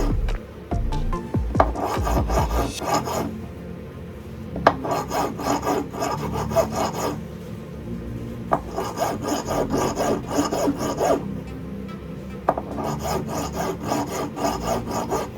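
Hand-filing on a gold ring: rapid rasping strokes in about four bursts of two to three seconds each, with short pauses between them.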